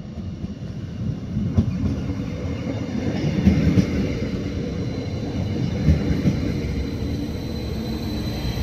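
Arriva Stadler GTW diesel multiple unit arriving and passing close by: a rumble of engine and wheels that grows louder over the first few seconds as it draws level, with a few separate knocks along the way.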